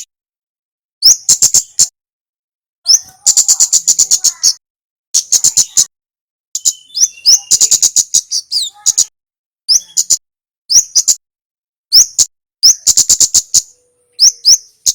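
Male kemade (kemlade) songbird singing: a lively chatter of short phrases, each opening with a quick rising note and running into a fast string of sharp, high clicking notes, repeated about every second with brief pauses between.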